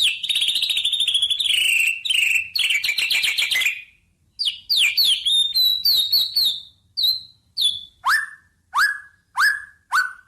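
A songbird singing: quick downslurred chirps and rapid trills, a short pause about four seconds in, then slower, lower downslurred whistles about twice a second near the end.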